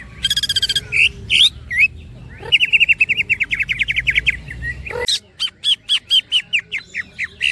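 Green leafbird (cucak ijo) singing. A harsh buzzy note and a few quick rising whistles lead into a fast rattling trill of repeated notes. About five seconds in, it moves to a slower run of sharp, separate downslurred notes, about four a second.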